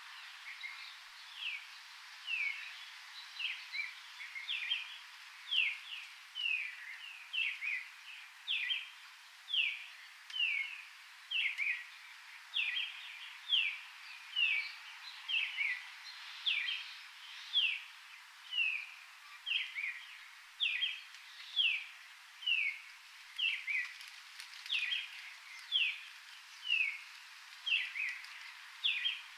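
A bird calling over and over in tropical forest: short falling chirps, roughly one a second, kept up steadily, over a faint background hiss.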